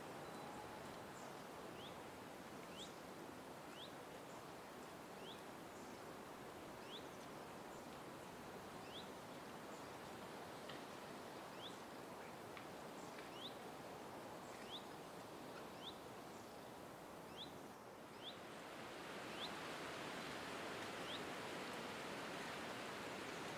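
A small bird repeating a short, high, upward-sweeping chirp every second or two over a steady outdoor background hiss. The background grows louder near the end.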